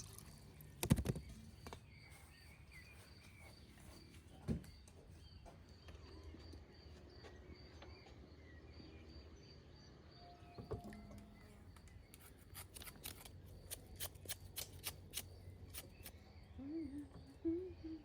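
Quiet outdoor ambience with a faint, evenly repeated high chirp, a few single knocks, then a run of quick sharp clicks from a knife cutting vegetables on a board during the last third.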